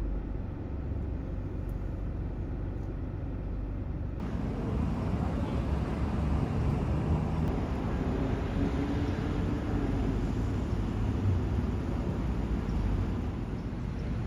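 Road traffic noise from motor vehicles: a steady low rumble of engines and tyres, growing fuller and a little louder about four seconds in.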